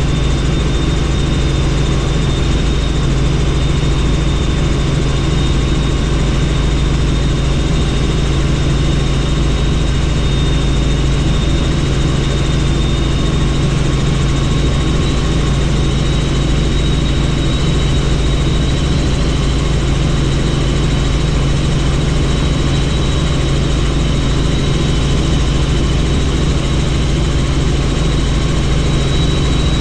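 Helicopter in flight heard from on board: a steady, loud drone of engine and rotor with a deep rumble, a rushing wind-like noise and a thin, steady high whine over it.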